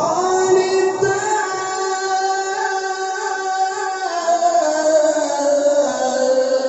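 A qari's voice in melodic Qur'an recitation (tilawah), drawing out one long ornamented note that wavers and slowly falls in pitch near the end.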